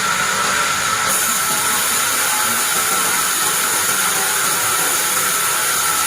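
Band sawmill running, a steady high whine over a bright hiss. The hiss grows brighter about a second in.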